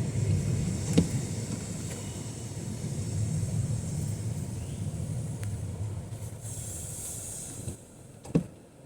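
A motor vehicle passing on a rain-wet street: a low rumble that fades away, with a brief hiss near the end. Two sharp knocks, about a second in and again near the end.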